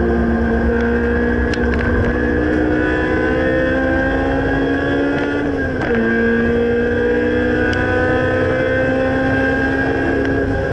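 Honda S2000 AP1's F20C four-cylinder engine pulling under load through a Spoon N1 exhaust, its pitch climbing steadily, dropping sharply at an upshift about six seconds in, then climbing again.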